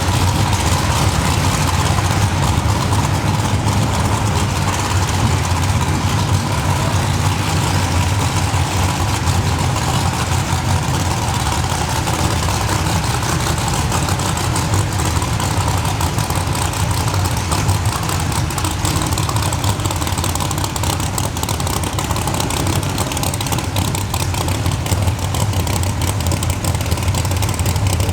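Cammed 572 cubic-inch big-block Chevrolet V8 idling steadily with the lopey beat of a big camshaft.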